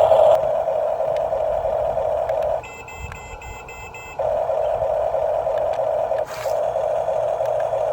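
Small electric motor of an RC toy truck whining steadily. It stops for about a second and a half, and in that gap a quick run of short electronic beeps sounds, then the whine starts again.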